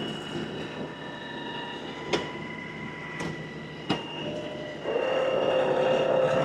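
LS XR315 compact tractor running with a steady whine while working a front grapple, with three sharp knocks in the middle. It gets louder and lower-pitched about five seconds in, as the engine and hydraulics take load.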